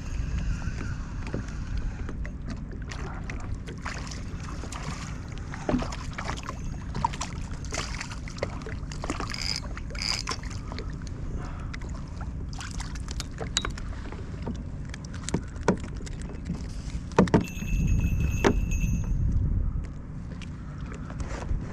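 Sounds of a fishing kayak on the water: low wash and rumble, with scattered clicks and knocks of gear being handled against the hull. About 17 seconds in come a few louder knocks, then a short steady high tone.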